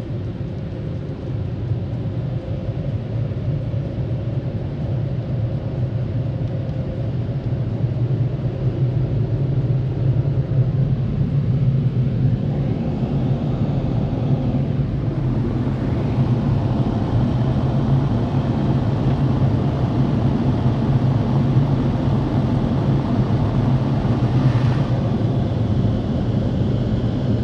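Automatic car wash machinery running, heard from inside the car as a loud, steady rumble that grows louder about halfway through.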